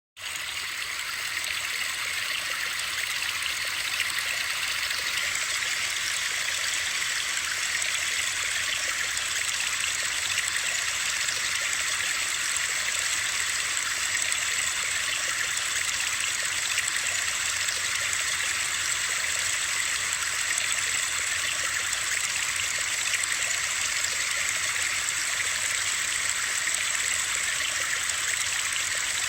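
Steady rushing water noise played as a sleep-sound track, a dense even hiss weighted to the high end. It cuts in abruptly from silence right at the start and then holds unchanged.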